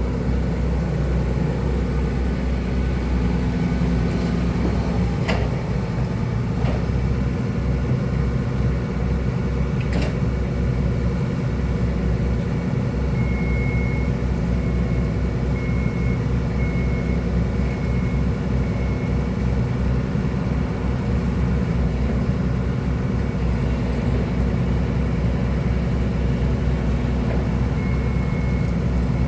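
Hydraulic excavator's diesel engine running steadily, with a few sharp knocks about five, seven and ten seconds in. A run of short, evenly spaced high beeps comes in about halfway through and again near the end.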